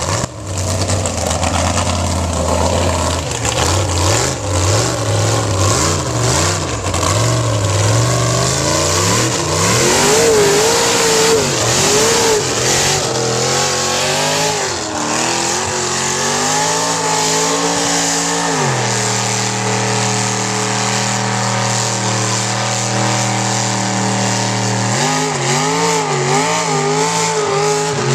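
Custom mud truck's engine revving up and down repeatedly. Its pitch drops and holds steady for several seconds about two-thirds of the way through, then starts wavering again.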